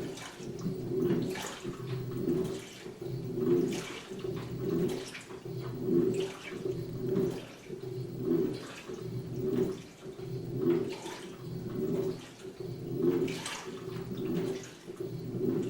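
2006 GE Profile top-loading washing machine agitating its load through the rinse: water sloshing and swishing in the tub in an even rhythm, about one surge every second and a bit, over the low hum of the drive.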